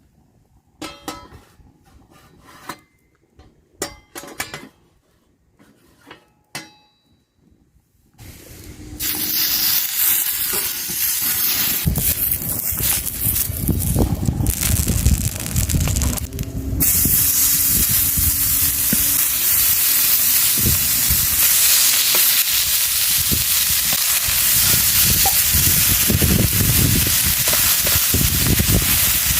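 A few scattered clicks and knocks, then about eight seconds in a loud, steady sizzle starts: beef fillet searing on a hot grill over a fire pit.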